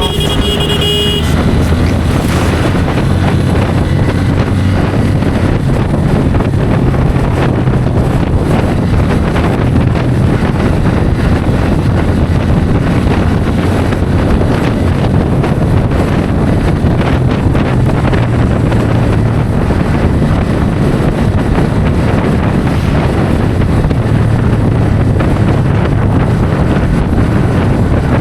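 Bajaj Pulsar N160's single-cylinder engine running steadily at highway cruising speed, with wind buffeting the microphone. A vehicle horn sounds briefly in the first second.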